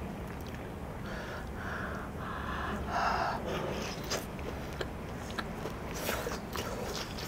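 Close-miked chewing of a mouthful of grilled pork, with wet mouth noises, breaths and a few small clicks.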